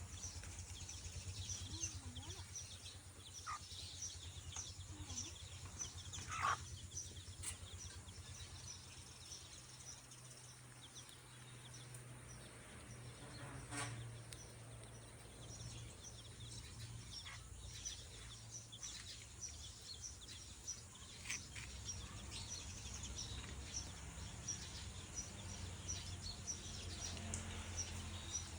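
Birds chirping, quick high chirps repeating over and over, over a low steady hum, with a few sharp clicks, the loudest about six seconds in.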